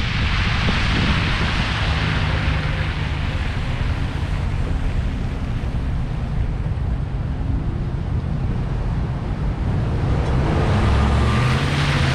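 Wind rushing over a roof-mounted camera, with the low rumble of the car's tyres on the road as it drives. Near the end a vehicle's engine note comes in and starts to rise.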